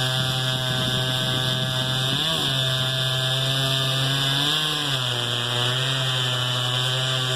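Echo CS-670 two-stroke chainsaw running at high speed, cutting through an oak trunk. Its engine note is steady, with brief rises in pitch about two seconds in and again about four and a half seconds in.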